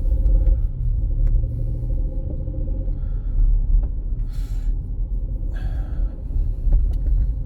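Steady low rumble with a faint steady hum, broken by two short hissing noises in the middle.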